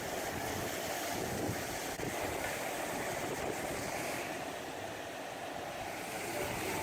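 Storm wind blowing hard, a steady rushing noise with wind buffeting the microphone.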